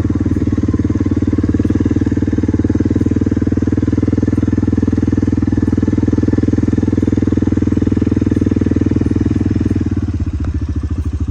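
Small vehicle engine running steadily at a constant speed, easing to a lower, slower rhythm near the end.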